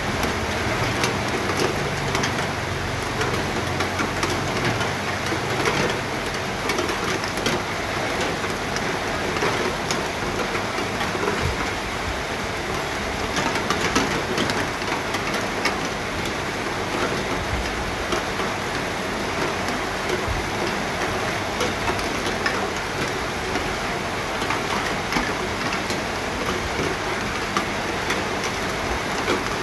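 Steady rain, its dense hiss dotted with many small drop clicks.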